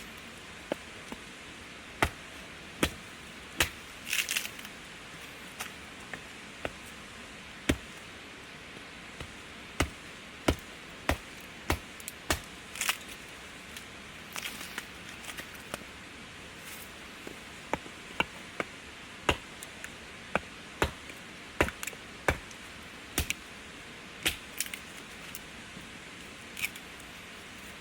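Wood campfire crackling, with sharp irregular pops over a soft steady hiss.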